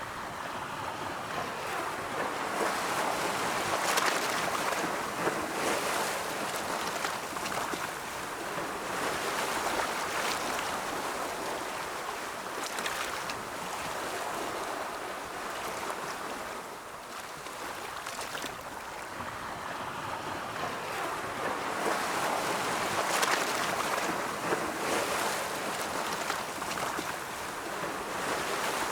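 Ocean waves rolling onto a shore: a steady wash of surf that swells and eases every several seconds, with no music or voice.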